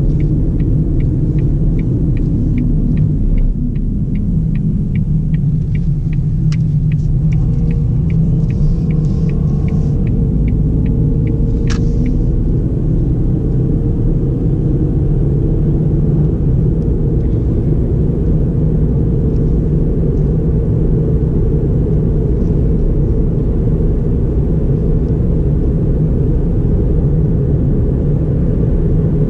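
Ford Fiesta 1.4 four-cylinder with automatic gearbox driving, a steady low rumble of engine and road noise. For the first twelve seconds a light ticking repeats about twice a second, like the turn-signal relay, ending in a sharper click, while the engine note rises as the car pulls away faster.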